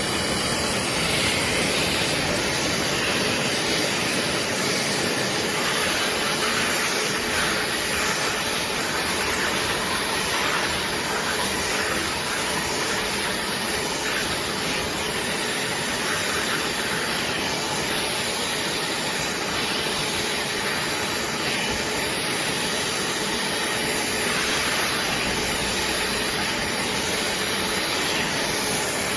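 BISSELL Little Green portable carpet cleaner's motor running steadily: a loud, even rushing hiss with a faint steady hum underneath.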